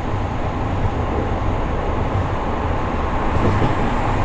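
Kobe City Subway Seishin-Yamate Line train running: a steady low rumble.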